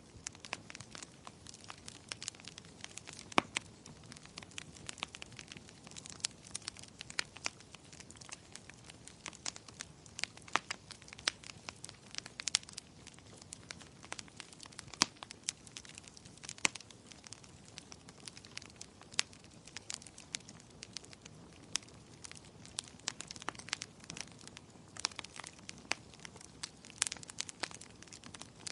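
Wood fire crackling in a fireplace: irregular sharp pops and snaps scattered over a soft steady hiss.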